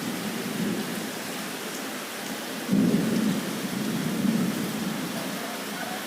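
Heavy rain pouring steadily, with a low rumble of thunder that breaks in suddenly about two and a half seconds in and rolls on for about two seconds.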